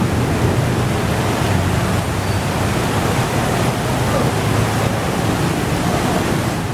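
Steady rushing noise of heavy rain and wind, with traffic passing on a wet road.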